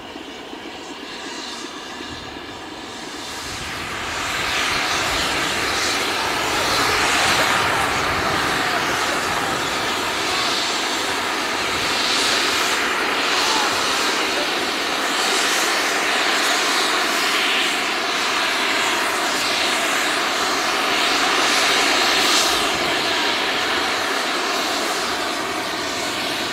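A railway locomotive working a train, its noise building about four seconds in and then staying loud and steady with slow surges.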